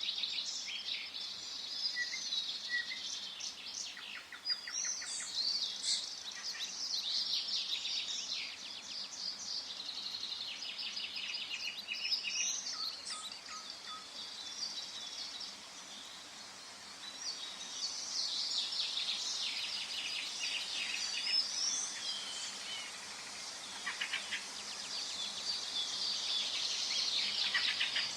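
Forest birdsong: many birds singing at once, a dense chorus of chirps, whistles and rapid trills that keeps going with a brief lull about midway.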